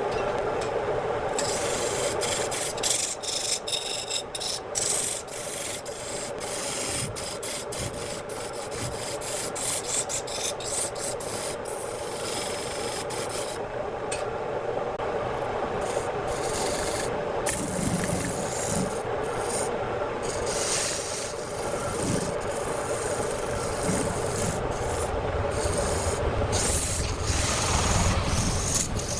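Wood lathe running with a steady hum while a turning tool scrapes against the spinning wood. The high scraping noise comes and goes in many short breaks.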